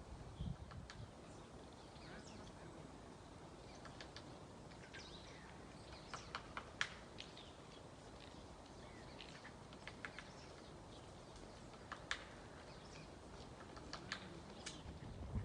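Faint, scattered songbird chirps and short sharp calls, coming irregularly.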